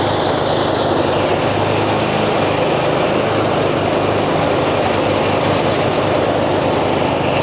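Engine-driven rice thresher running steadily: a constant engine hum under a dense, even rushing noise.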